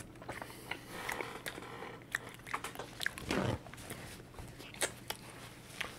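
A person chewing a mouthful of fries, with many small mouth clicks and smacks.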